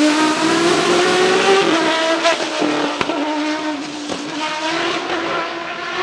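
Judd GV4 4.0-litre V10 of a Dallara SP1 Le Mans prototype running at a steady, moderate engine speed. Its pitch rises slightly, eases back about a second and a half in, and the sound gets somewhat quieter after about four seconds.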